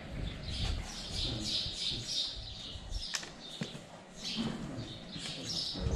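Small birds chirping repeatedly, with two sharp clicks a little after three seconds in.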